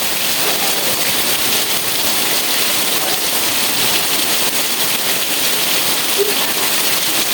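Steady rain falling: a dense, even hiss that holds the same level throughout.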